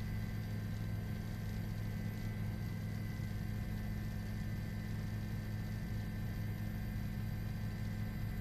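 Steady low drone and hiss of a news helicopter's cabin, heard through the crew's open intercom microphone, with a faint steady whine on top.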